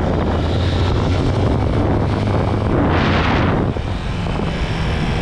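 Chinese 250cc dirt bike's engine running under way, a steady drone with a louder rush about three seconds in that eases off just before the four-second mark.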